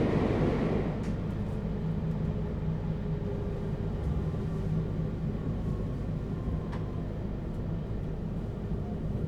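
Onboard running sound of a JR Hokkaido Class 721 electric train in its Toshiba GTO-inverter motor car: a steady rumble of wheels and traction equipment with faint steady tones. It is a little louder in the first second, then runs evenly.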